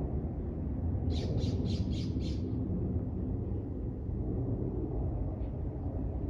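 A bird gives five harsh squawks in quick succession about a second in, roughly three a second, over a steady low rumble.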